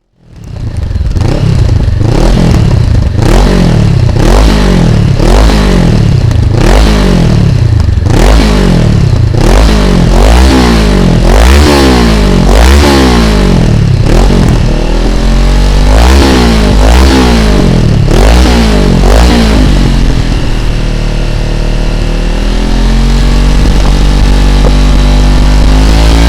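Honda CB500F's parallel-twin engine through a GPR aftermarket exhaust, starting abruptly and revved in quick repeated throttle blips about once a second. After about twenty seconds it settles to a steadier note, then rises again near the end.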